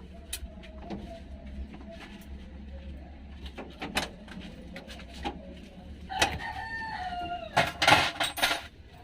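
A rooster crows once, about six seconds in, a call of about a second and a half that falls in pitch at the end. A cluster of loud sharp knocks follows right after it, with scattered lighter clicks throughout.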